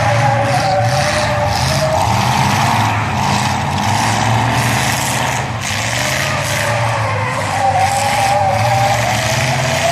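Demolition-derby trucks' engines running and revving hard. A wavering high whine over the engine noise swells twice.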